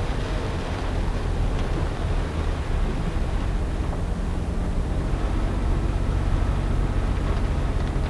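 Small car's engine running steadily while driving, with a continuous hiss of heavy rain and water off the road.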